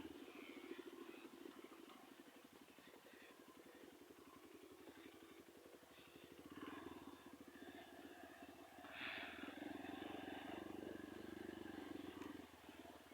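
Motorcycle engine running at low speed, faint, with a fast even firing pulse; it gets somewhat louder for a few seconds past the middle.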